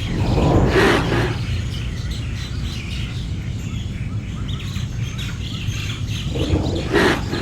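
Small birds chirping in quick short notes over a steady low rumble. A louder, fuller sound comes in during the first second and again near the end.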